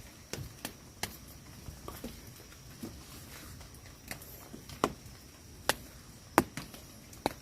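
Irregular sharp taps and knocks, about a dozen, over a faint steady hiss.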